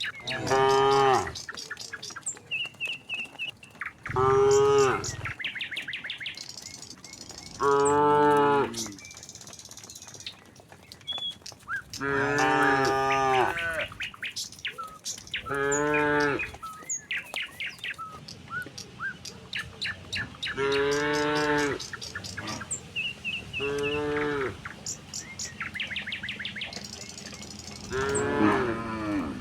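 Herd of cattle mooing repeatedly: about eight long, drawn-out moos, a few seconds apart.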